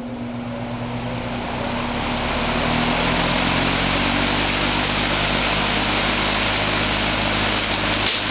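Vintage AMC metal box fan running: a steady motor hum under a rush of air that grows over the first two to three seconds as the blades spin up, then holds steady.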